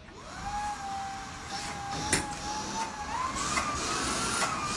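Shark cordless stick vacuum's motor running with air rushing through it, switched on to check suction. Its whine rises in pitch about three seconds in, with a sharp click about two seconds in.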